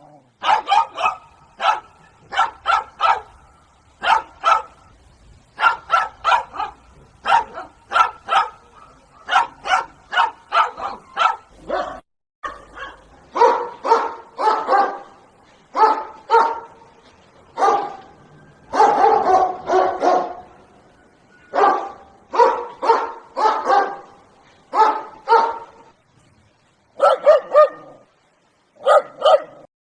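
A dog barking over and over in quick runs of sharp barks with short pauses between them. The barks sound deeper from about halfway through.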